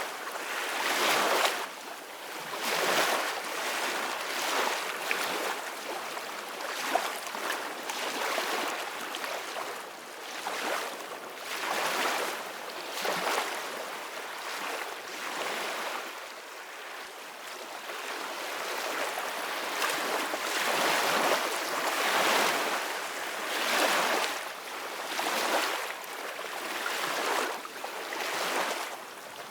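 Sea waves washing and breaking in repeated surges, each swell rising and falling away every couple of seconds.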